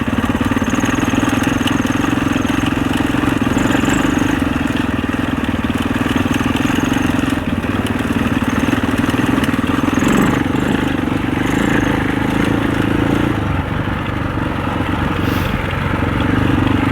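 Husaberg 650 single-cylinder four-stroke enduro motorcycle engine running at a steady throttle while being ridden over rocks, its pitch dipping briefly about ten seconds in.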